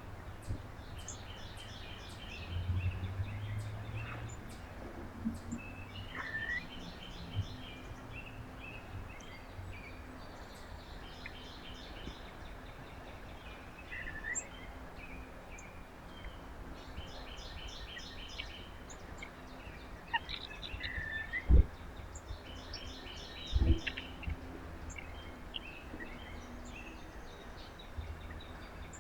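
Small birds at a feeder calling, with repeated quick runs of high chirping notes and short sliding call notes over a low steady hum. Two sharp thumps about two seconds apart stand out near the end.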